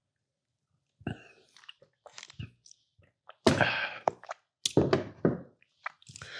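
Close-up eating sounds: wet chewing and mouth noises in irregular bursts with a few sharp clicks, starting about a second in.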